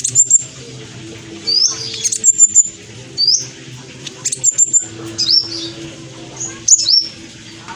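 Black sunbird singing: short, high, sharp chirps and quick upward-sliding notes, repeated about once a second, over a faint steady low hum.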